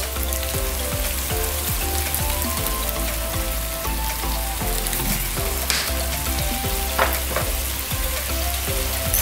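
Corned beef and sliced onions frying in a pan with a steady sizzle as soy sauce is poured in.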